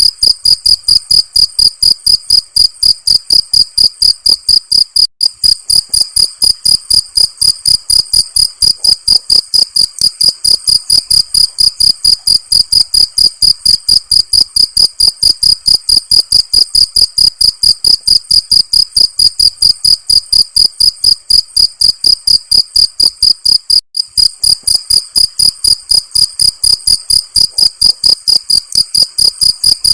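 Cricket chirping in a fast, even, unbroken rhythm of about four or five shrill, high-pitched chirps a second.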